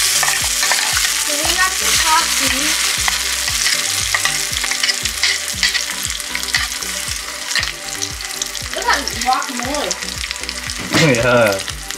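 Ground cactus chutney paste sizzling in hot oil with a mustard-seed, cumin, chili and curry-leaf tempering in a small pan, stirred with a spoon that scrapes and clicks against the pan.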